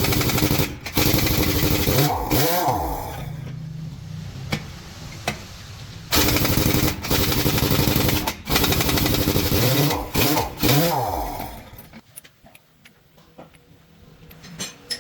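Air impact wrench running on truck wheel nuts in two long bursts, each winding down with a sweeping change in pitch, followed by quieter clinks and taps near the end.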